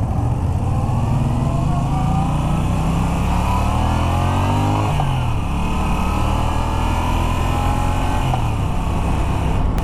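Moto Guzzi V9 Bobber's 850cc transverse V-twin accelerating under way, its pitch climbing, dropping at an upshift about five seconds in, then climbing again, with another shift a little after eight seconds.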